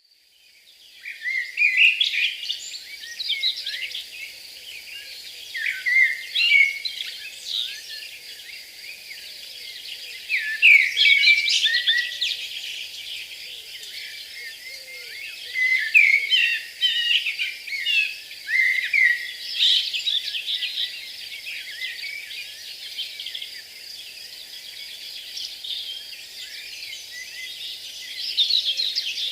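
Many birds chirping and calling over one another in quick, irregular bursts, over a steady high-pitched drone. The sound fades in over the first second.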